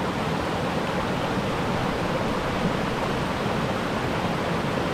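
Steady rush of a mountain creek flowing over rocks.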